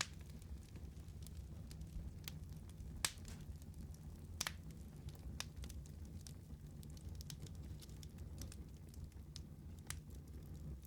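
Wood fire burning: a steady low rumble of the flames with irregular sharp crackles and pops from the burning wood, two of them louder, about three and four and a half seconds in.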